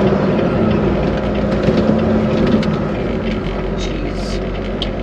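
Inside the cab of a Volvo VNL 860 semi truck on the move: a steady engine hum under road noise, with a few faint scattered ticks.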